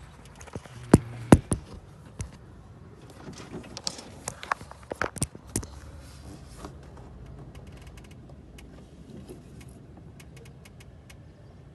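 Handling noise from the camera being tilted and repositioned: two sharp knocks about a second in, a cluster of clicks and knocks around four to six seconds, then a few faint ticks.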